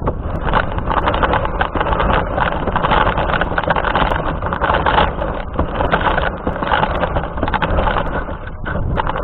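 Radio-controlled car driving, heard from a camera mounted on it: a loud, rough rushing noise that rises and falls throughout.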